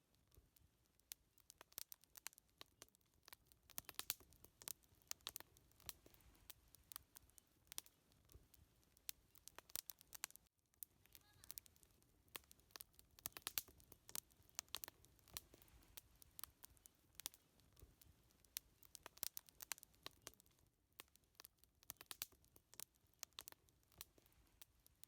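Wood fire crackling: irregular sharp pops and snaps, often in clusters, over a faint low rumble, with a momentary dropout about ten seconds in.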